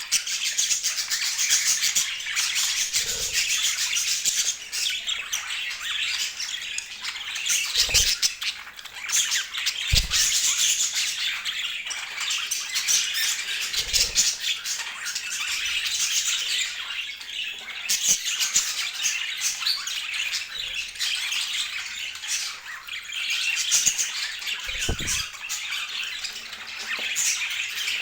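Budgerigars chattering and squawking without pause: a dense run of rapid chirps, clicks and warbles, with a few short low thumps scattered through.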